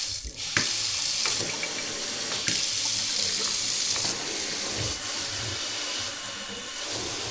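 Water running steadily through newly connected plumbing, with a brief dip in the flow near the start and a few light knocks.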